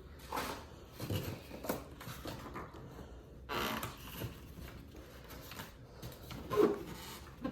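Packaging and small coffee-machine accessories being handled: scattered rustles with light clicks and knocks, a longer rustle about halfway through and a sharper knock near the end.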